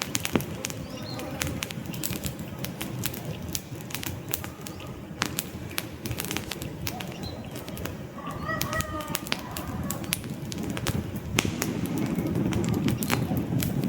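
Wood campfire crackling, with frequent sharp pops over the low rush of the flames, which swell louder near the end. A bird gives a short call about eight and a half seconds in.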